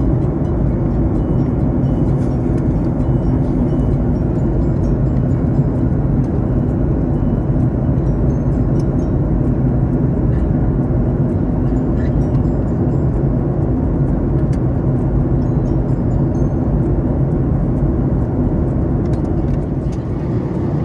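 Airliner cabin noise in flight: a steady, loud low rumble of the engines and rushing air.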